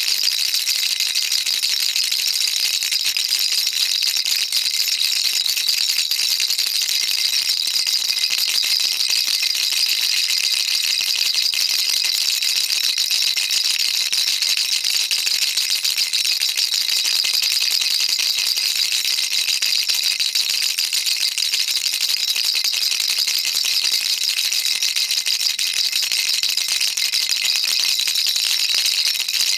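Baby rattle shaken continuously: a dense, steady rattling of small beads, bright and high-pitched, with no pauses.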